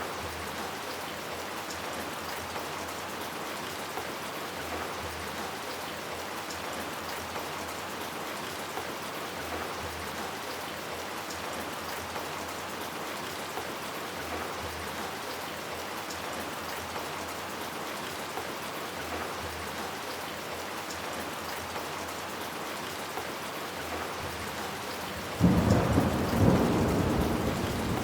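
Steady rain falling, an even hiss. Near the end a sudden loud thunderclap breaks in and rumbles on, slowly fading.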